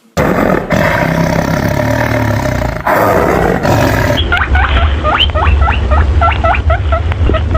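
An animal's loud, rough roaring call lasting about four seconds. It is followed by a quick series of short chirping notes over a steady low rumble.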